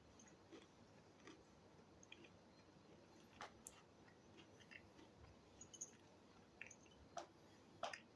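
Faint chewing with a few soft mouth clicks, the loudest near the end.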